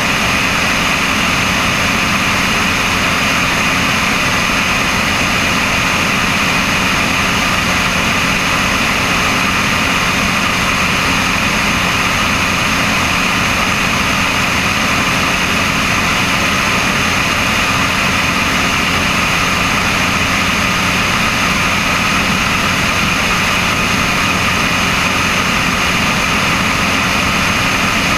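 Cessna 172's piston engine and propeller running with a constant, unchanging drone, mixed with a steady rushing noise.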